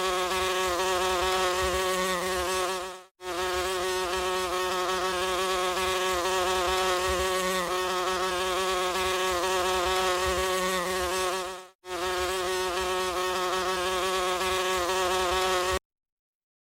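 Flies buzzing in a steady, continuous drone. The buzz fades out and back in twice, then cuts off suddenly near the end.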